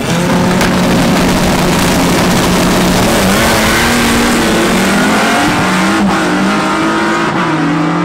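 Drag-race car engines running at high revs, loud and sustained. The note holds steady for about three seconds, then shifts up and down in pitch several times.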